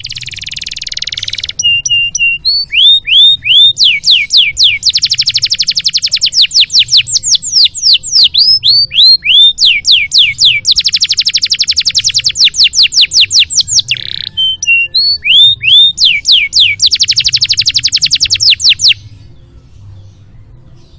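Domestic canary singing a long, varied song of fast buzzy trills alternating with series of downward-sweeping whistled notes, stopping about two seconds before the end.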